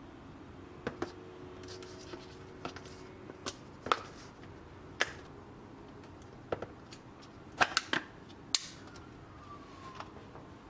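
Small objects being handled: irregular sharp clicks and taps, about a dozen, with a faint tone falling in pitch near the end.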